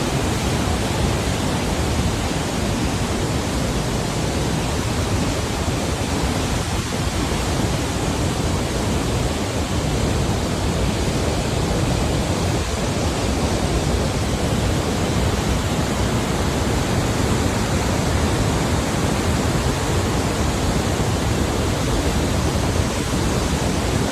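The Rhine Falls, a large waterfall, rushing: a loud, steady noise of falling water that holds even throughout.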